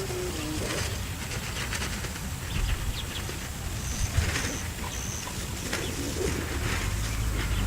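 Outdoor ambience of wind rumbling on the microphone, with a dove cooing near the start and a bird giving three short high chirps about four seconds in.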